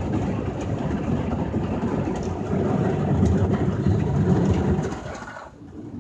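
Rotating cloth top brush of a Ryko SoftGloss Maxx automatic car wash scrubbing over the truck, a dense rumbling swish heard from inside the cab. It cuts off abruptly about five seconds in as the brush stops.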